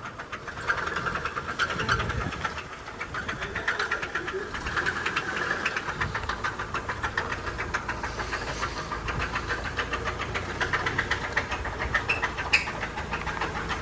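2000 Honda CR-V's four-cylinder engine running with a rapid, steady knock: rod knock from a failing connecting-rod bearing.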